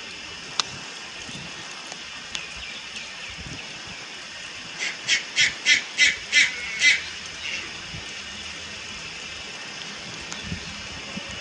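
Juvenile Malayan night heron calling: a run of about seven short, high-pitched notes, roughly three a second, about halfway through, trailing off into a few fainter ones.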